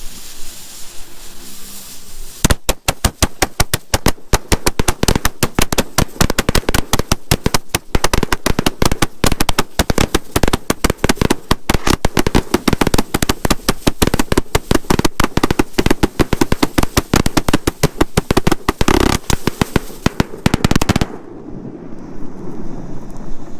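A 100-shot fan compound fireworks cake firing, its strobing breaks going off as a dense, rapid rattle of sharp pops. The rattle starts about two and a half seconds in after a soft hiss, and drops back to a quieter hiss near the end.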